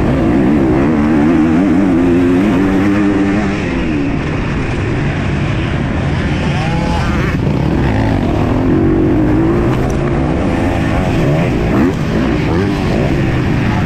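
MX2 motocross dirt bike engines revving hard, the pitch rising and falling as the throttle opens and closes, with more than one bike heard at times.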